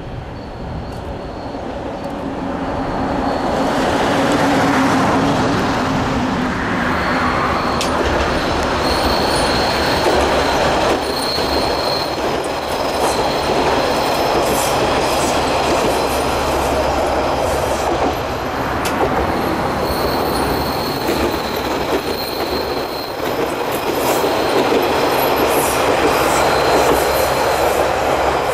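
Three-car train of Isumi Railway's Isumi 200'-type diesel railcars running on the line. The noise builds over the first few seconds, then holds loud, with a few wheel clicks over rail joints and a high wheel squeal that comes and goes.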